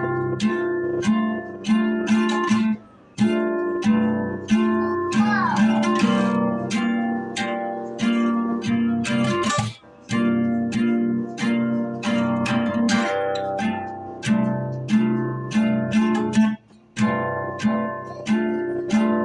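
Acoustic guitar strummed in repeated chords, with a few brief breaks between phrases.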